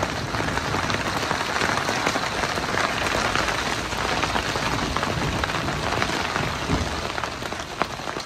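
Heavy rain falling on a narrowboat's roof and solar panels: a dense, steady hiss full of sharp little drop impacts.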